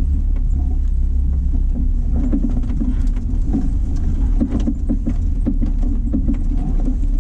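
A car moving slowly, heard from inside: a steady low engine and road rumble with many small clicks and rattles.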